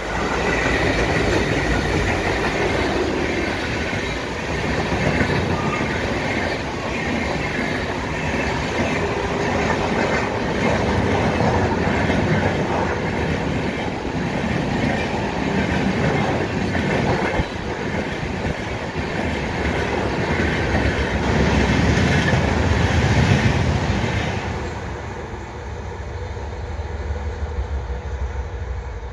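A passenger train hauled by two diesel locomotives passing close by at speed: engine noise and then the coaches' wheels running over the rails. The sound drops away about 25 seconds in as the end of the train goes past and recedes.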